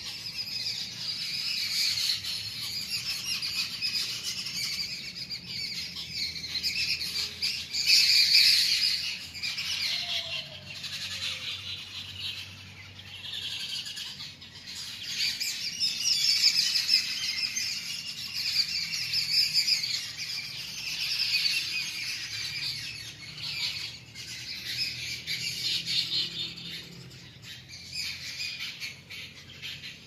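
A flock of small birds chirping together in a dense, continuous chorus, loudest about eight seconds in.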